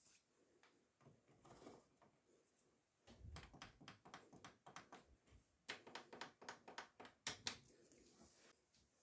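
An irregular run of sharp clicks and knocks, several a second, from handling the washing machine's controls and parts. It starts with a low thud about three seconds in and stops shortly before the end.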